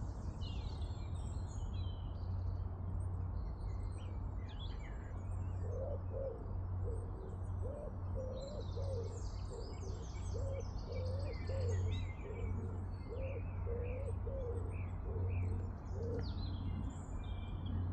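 Several small birds chirping and singing throughout, with a dove cooing in a repeated low phrase from about six seconds in until near the end, over a steady low hum.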